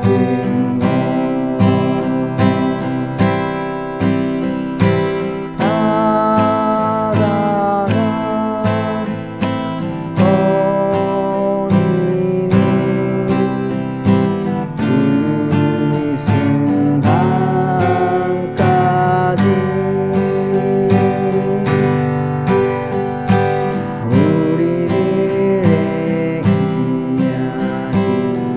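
Acoustic guitar strummed in a steady repeating down-down-up-down-up pattern, moving through open chords (C, G, F, A minor, D minor, D7), with a few sliding notes along the way.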